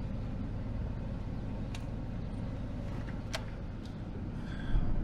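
Vehicle engine idling with a steady low rumble, with two sharp clicks about two and three and a half seconds in.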